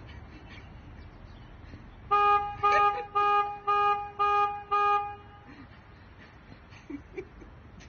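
A horn sounding six short toots at one pitch, evenly spaced at about two a second.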